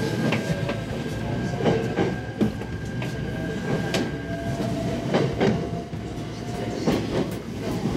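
JR Shinetsu Line local electric train pulling out of a station, its wheels clacking irregularly over rail joints and points. A steady whine runs underneath and shifts lower about halfway through.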